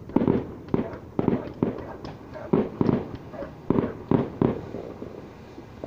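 Fireworks going off: a quick, irregular string of about a dozen sharp bangs that thins out after about four and a half seconds.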